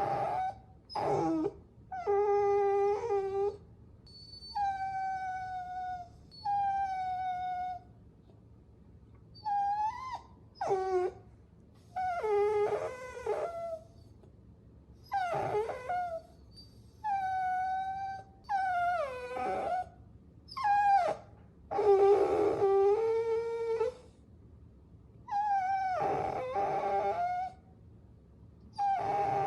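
Puppies whining: a dozen or so high-pitched whines and whimpers in quick succession with short pauses between them. Some are held for a second or two, others bend or fall in pitch.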